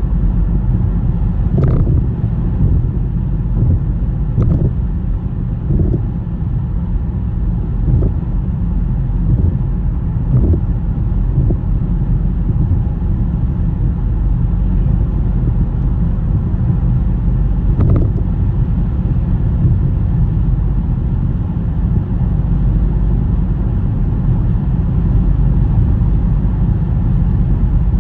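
Car driving on a snowy road: a steady low rumble of tyres and engine, broken by a few short knocks. The clearest knocks come about two seconds in, about four and a half seconds in, and about two-thirds of the way through.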